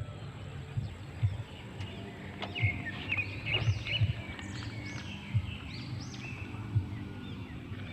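Small birds giving a series of short, quick chirps that begin a couple of seconds in, over low, irregular thumps.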